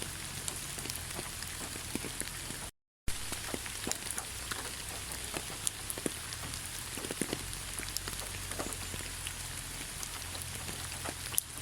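Steady rain falling through a pine forest, an even hiss with many close individual drops ticking. The sound cuts out to total silence for a split second just under three seconds in, then resumes.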